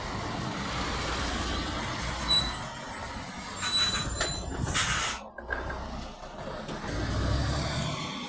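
A heavy truck running on the road, with engine rumble and road noise. About five seconds in comes a short, loud air-brake hiss, and the engine rumble swells near the end.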